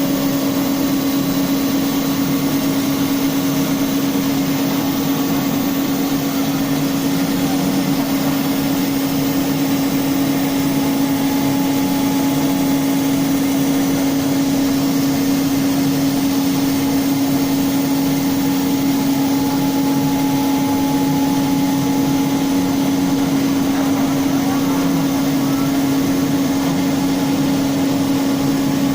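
CNC router spindle running steadily: a constant pitched whine over a steady hiss of machine noise.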